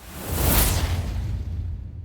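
A whoosh sound effect: a rushing swell that peaks about half a second in, with a deep rumble under it, then slowly dies away.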